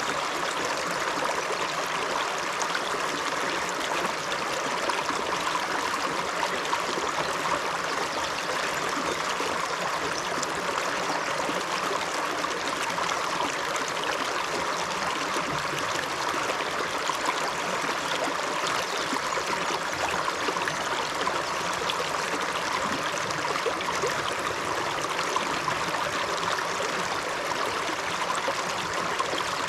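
Shallow upland river flowing over stones, a steady rush of water with small gurgles and trickles.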